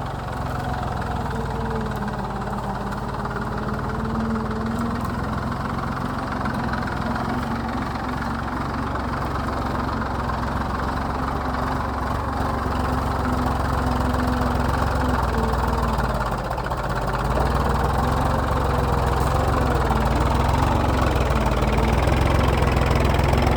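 Massey Ferguson tractor's diesel engine running steadily under load while ploughing, growing a little louder over the second half.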